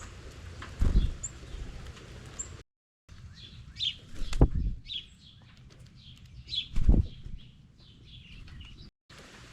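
Small birds at a feeder: a run of short, high chirps repeating every half second or so, broken by three loud low thumps, about one, four and a half and seven seconds in.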